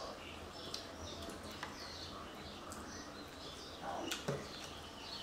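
Small birds chirping repeatedly over a steady low hum, with a brief louder falling sound and a click about four seconds in.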